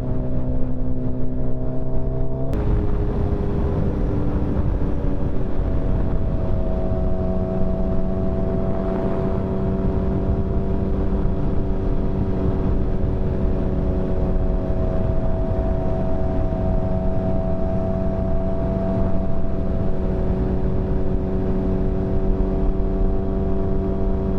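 Motorcycle engine running at a steady cruise with road and wind noise; about two and a half seconds in the engine note changes and a rushing noise comes in, then the note holds steady.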